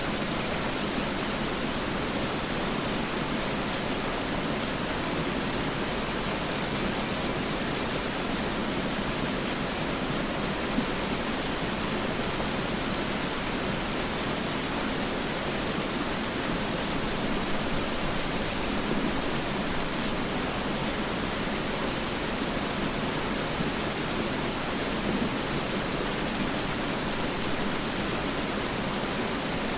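Mountain river flowing, a steady even rush of water with no breaks.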